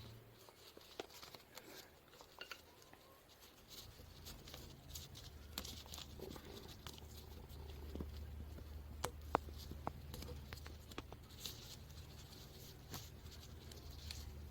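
Faint handling sounds: scattered light clicks and taps as a new rubber cup seal is worked onto a hydraulic jack's piston, over a low steady hum.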